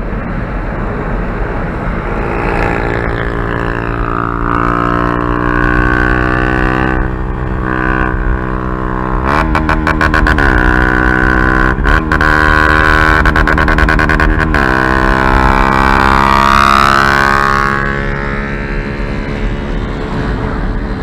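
Honda CG Fan 150 single-cylinder engine with a loud aftermarket exhaust, revved up from idle and held high. It bounces off the rev limiter in rapid stuttering cuts several times, then drops back to idle near the end.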